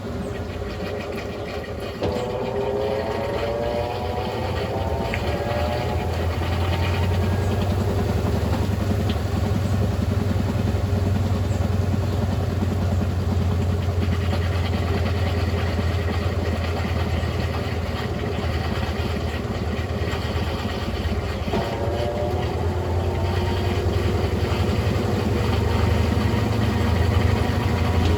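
Brastemp Ative 11 kg (BWL11) washing machine running with a steady low hum. Its motor whine rises in pitch about two seconds in and again near the end as the drum speeds up.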